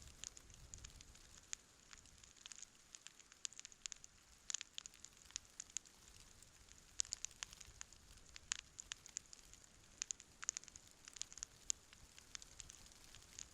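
Wood campfire crackling: irregular sharp pops and snaps over a faint hiss.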